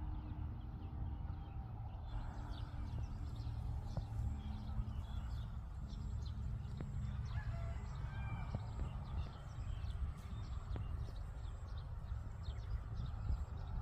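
Birds calling outdoors: many short chirps, with a few longer calls about halfway through, over a steady low rumble.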